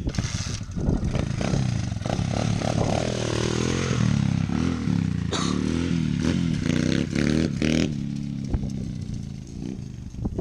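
Pit bike engine revving hard under acceleration for a wheelie launch. Its pitch climbs for a couple of seconds, wavers at high revs, then eases off near the end.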